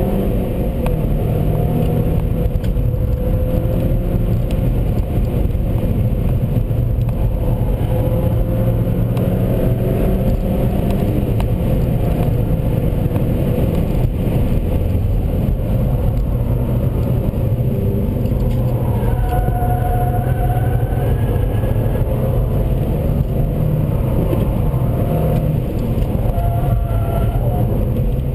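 Seat Leon Cupra 1P's turbocharged 2.0-litre four-cylinder engine driven hard, its note rising and falling with revs, over steady loud road and wind rumble.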